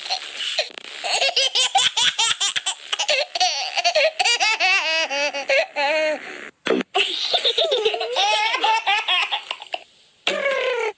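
A baby laughing in repeated high-pitched giggling bouts, with short breaks a little past the middle and near the end.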